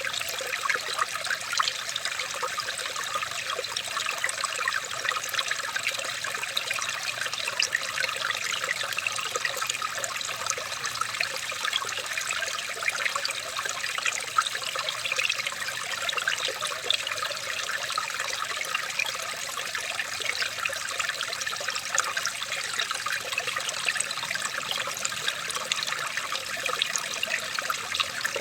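Running water trickling and splashing steadily, with many small splashes and no pauses.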